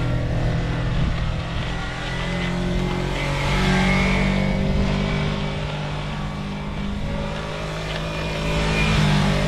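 Motorcycle engine running steadily while the bike corners. Its pitch steps up about a third of the way in, settles back, and rises again near the end as the throttle opens and closes.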